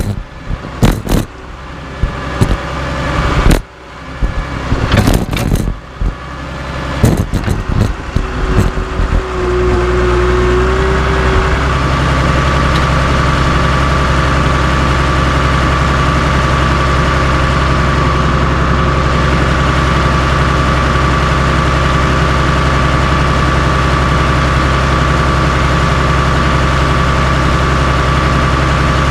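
Heavy irregular clanks and bangs for the first nine seconds or so, then the Cat D3C LGP bulldozer's diesel engine running at a steady pitch.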